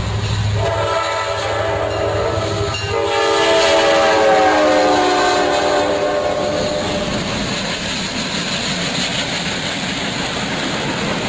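Train horn blowing a loud multi-tone chord. About three seconds in it grows louder and slides down in pitch as the train passes, then gives way to the steady rushing noise of the train running by.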